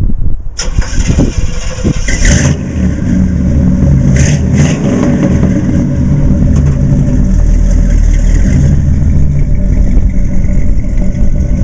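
The 1955 Ford C.O.E. pickup's 454 cubic-inch big-block V8 is pulling the truck along under throttle. It builds over the first second or two and then runs steadily, with a couple of short sharp noises about two and four seconds in.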